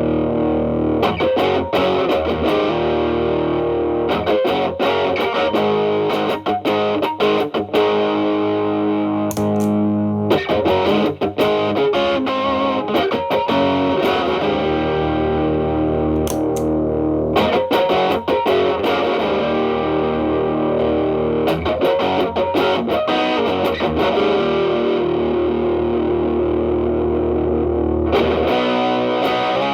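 Telecaster electric guitar through a Xotic BB-series overdrive pedal at maximum gain into a Marshall Valvestate amp's clean channel: distorted chords and single notes picked with sharp attacks and long sustain, with a chord held for several seconds near the end.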